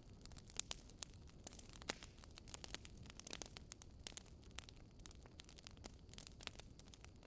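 Wood fire crackling in a fireplace: irregular sharp pops and snaps, several a second, over a soft low rumble of the burning.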